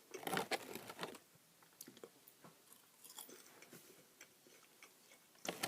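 Mouth chewing a crispy wasabi-flavoured seaweed snack: crunching, densest in the first second or so, then scattered fainter crunches.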